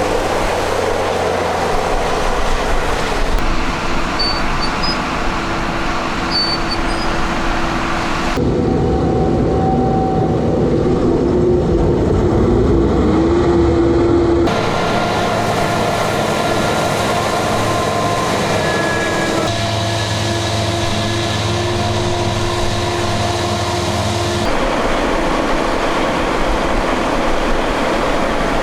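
Forage harvester and tractors working at silage chopping, with the steady, heavy running of the machines changing abruptly every few seconds. A tone rises in pitch about halfway through.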